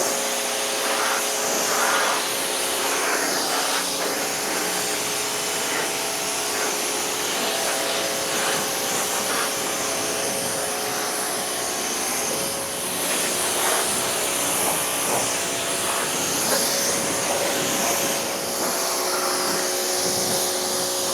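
Pressure washer running steadily, its motor and pump humming under the hiss of the water jet as the truck's chassis is rinsed.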